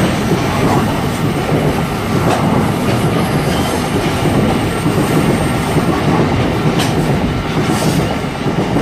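A train rolling past close by: a steady, loud rumble of wheels on rails, with a few clicks over the rail joints and a faint steady high whine.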